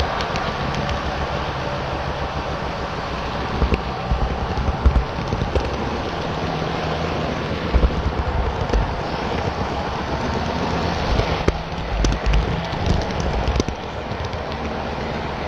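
HO scale model trains running on the layout: a steady rolling rumble with scattered sharp clicks.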